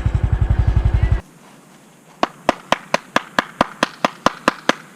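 Yamaha Ténéré 250's single-cylinder motorcycle engine idling, stopping abruptly about a second in. Then a quick run of about a dozen hand claps, some four to five a second: clapping at a gate to call the people of the house.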